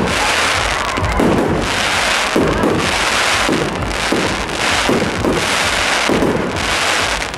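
A fireworks display crackling and popping without a break, with a fresh burst every half second to a second.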